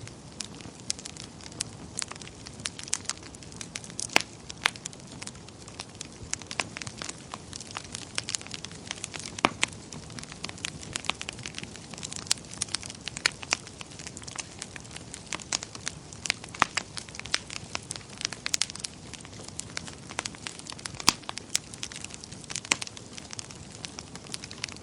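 Wood fire burning in a fireplace: a steady low rush of flames with frequent irregular crackles and sharp pops from the burning logs.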